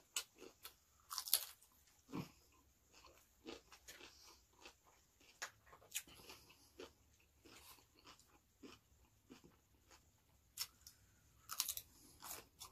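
A person biting and chewing crisp raw cabbage leaf: irregular crunches and wet mouth clicks, with louder runs of crunching about a second in and again near the end.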